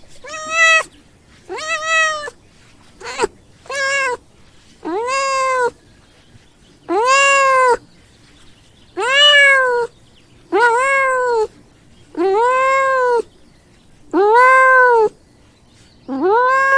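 Domestic cat meowing repeatedly, about eleven meows in a row, each rising then falling in pitch. The first few are short; the later ones are drawn out to nearly a second each.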